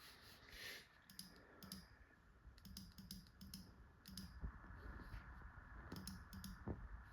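Faint computer keyboard typing: short clusters of key clicks that come and go.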